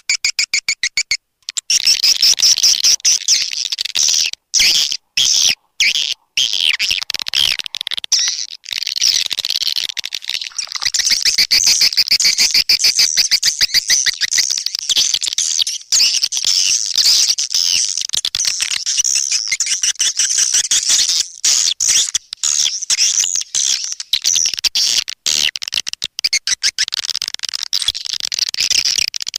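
Swiftlet calling sound: a dense, rapid twittering chatter of edible-nest swiftlets, the kind of lure call played in swiftlet houses to draw the birds in to roost. It is high-pitched and continuous, cut by a few short dropouts in the first several seconds.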